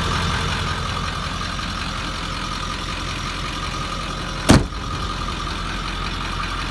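Ford 7.3 L Powerstroke V8 turbo diesel idling steadily, with a single sharp thump about four and a half seconds in.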